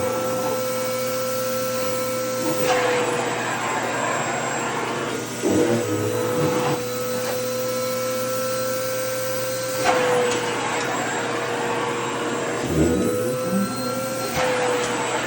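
Vacuum cleaner running with a steady motor whine over the rush of air. About five times the rushing briefly surges louder and the whine shifts a little in pitch, as a skirt's fabric is drawn into the nozzle and changes the airflow.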